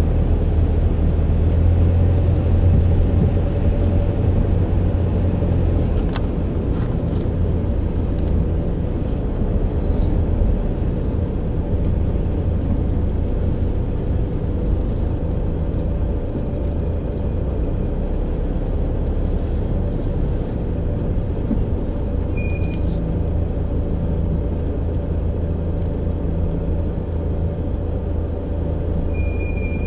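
A car driving: steady engine and road rumble with a constant hum, and two short high beeps near the end.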